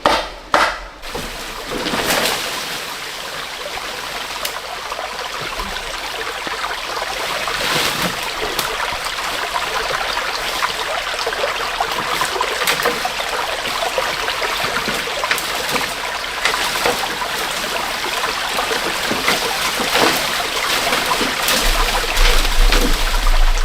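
Water running or trickling steadily, after two or three sharp knocks in the first second.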